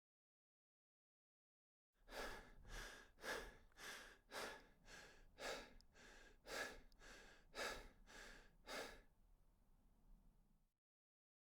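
A person breathing hard in a steady rhythm, about two breaths a second, starting about two seconds in and fading out near the end.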